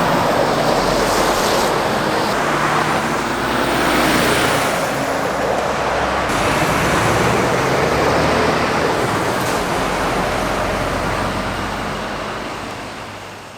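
Busy road traffic, with lorries and cars passing at speed: a steady rush of tyre noise over low diesel engine sound that swells and eases as each vehicle goes by, then fades out at the very end.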